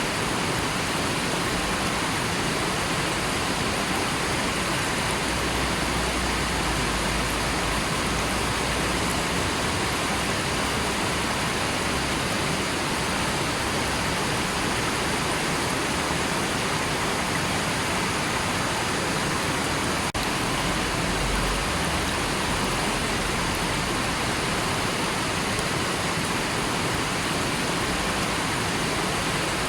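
River water flowing steadily in an even rushing hiss, with a faint low rumble now and then.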